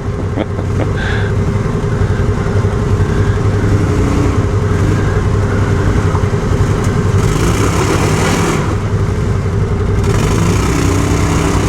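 An off-road vehicle's engine running steadily on a rocky trail obstacle, with louder spells of throttle and rough noise about seven seconds in and again near the end.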